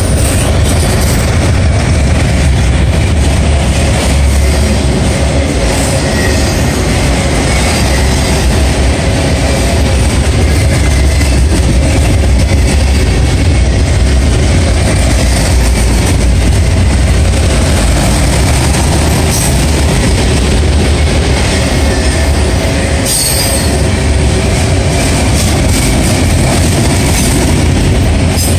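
Autorack freight cars of a CSX train rolling past close by: a steady, loud rumble of steel wheels on rail, with a faint wheel squeal in the background and one brief sharper clatter late on.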